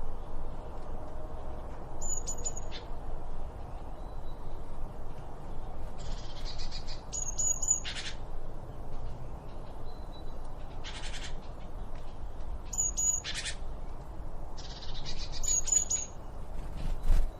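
Songbirds singing short phrases of high chirps and fast trills every few seconds, over a steady low background rumble. A brief knock comes near the end.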